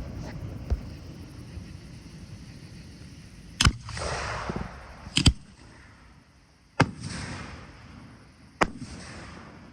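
Fireworks going off: four sharp bangs a second or two apart, the second a quick double, each trailed by about a second of hissing crackle.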